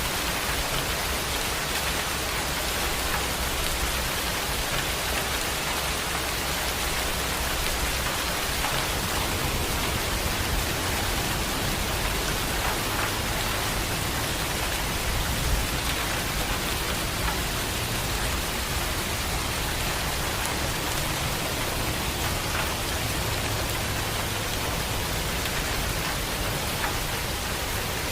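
Heavy rain falling steadily and pattering on a surface.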